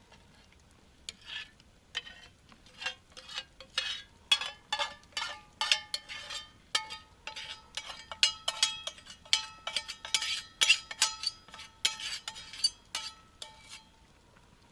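Spoon stirring pasta and sauce in a camp pot, scraping and clinking against the pot about twice a second, some strikes leaving a short ringing note.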